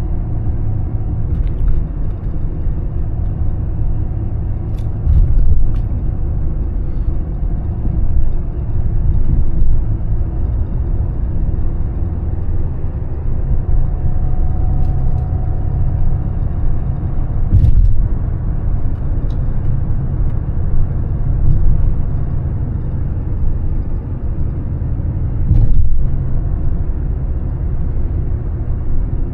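Mercedes-Benz E320 CDI diesel car driving: a steady low engine and road rumble, with a few short thuds, the loudest about 18 and 26 seconds in.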